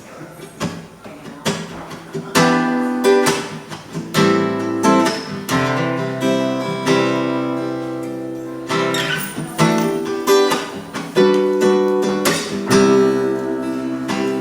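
Acoustic guitar playing the instrumental intro of a song: a few soft notes at first, then strummed chords, each stroke sharply attacked and ringing on, from about two seconds in.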